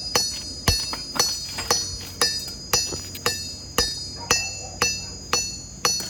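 Steady hand-forging blows of a 4-pound rounded hammer on hot steel over a Paragon anvil, about two strikes a second, each with a high metallic ring from the anvil.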